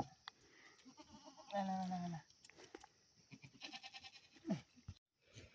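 A goat bleating: one steady call of about half a second, about a second and a half in, with a fainter, shorter call near the end.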